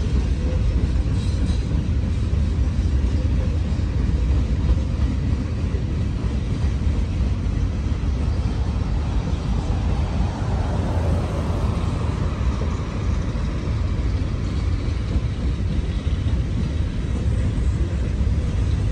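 A freight train of coal hopper cars rolling past, with a steady low rumble of wheels on the rails. A broader swell of noise rises and fades about ten to thirteen seconds in.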